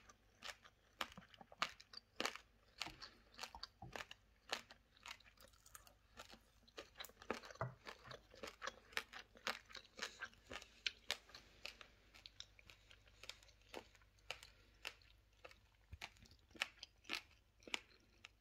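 A person chewing crunchy food close to the microphone: many small, irregular crunches, a few each second.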